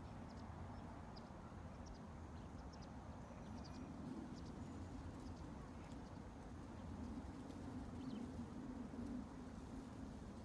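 Faint, steady ambient noise with a low rumbling band, dotted with scattered brief high chirps.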